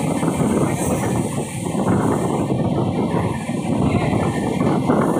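Passenger train coach running at speed, heard from its open door: a steady rumble of the wheels on the rails with a dense, rapid rattling clatter.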